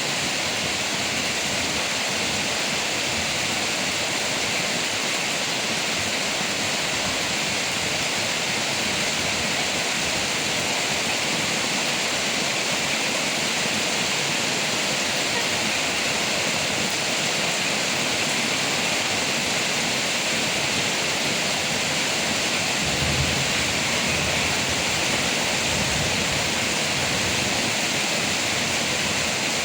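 Heavy rain falling steadily on leaves, a dense even hiss with no breaks. A brief low rumble sits underneath about two-thirds of the way in.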